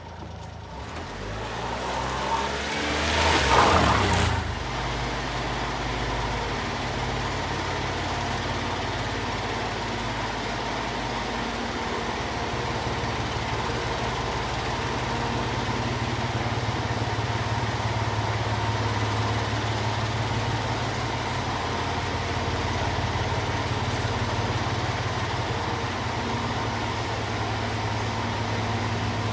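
1997 Honda Acty kei truck's small three-cylinder engine, revved briefly a few seconds in and then idling steadily.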